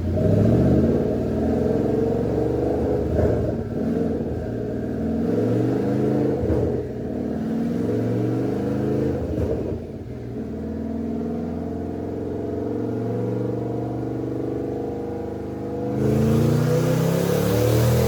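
Twin-turbocharged 2014 Mustang GT's 5.0 Coyote V8 accelerating hard, its pitch climbing and dropping back several times in the first ten seconds, then running steadier before climbing again, louder, near the end.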